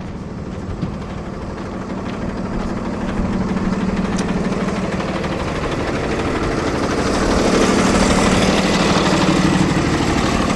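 Cummins 6.7 inline-six diesel in a Freightliner M2 flatbed running steadily at idle, getting louder about three seconds in and again around seven seconds.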